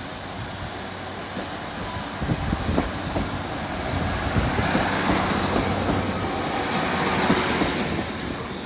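GWR Class 150 Sprinter diesel multiple unit running past at close range, with its wheels knocking over rail joints several times. The noise builds as the train draws level in the middle and fades near the end.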